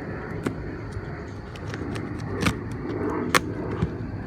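A steady low rumble like a running engine, with several sharp knocks or clicks over it. The loudest knocks come about two and a half and three and a half seconds in.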